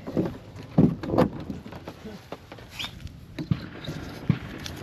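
A series of knocks and thumps from gear being handled, with two loud thumps close together about a second in and a few lighter knocks later.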